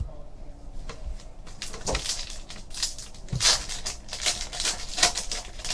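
Trading-card pack wrappers crinkling and cards being handled as packs are opened, heard as a run of short, irregular crackles.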